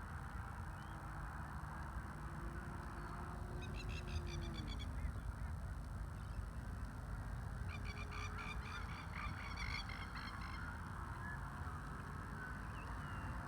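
Birds calling in two bursts of rapid, high repeated notes, the first about four seconds in and a longer one about eight seconds in, over a steady low rumble. A faint tone, likely the electric RC plane's motor, glides down in pitch near the first burst.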